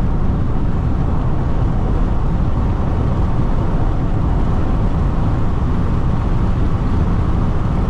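Steady road and wind noise inside the cabin of a Jeep Renegade diesel driving at high speed: a dense, even rumble of tyres and engine.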